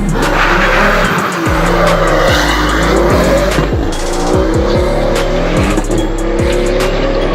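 Music with a deep, steady bass and a quick hi-hat beat, mixed with a Pagani Huayra's twin-turbo V12 engine running and revving.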